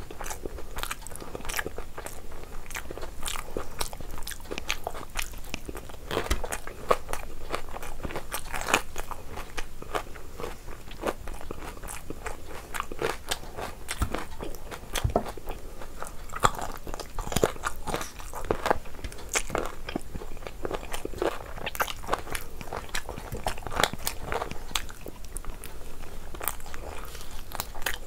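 A person chewing meat close to the microphone, with many irregular wet clicks and crunches from the mouth.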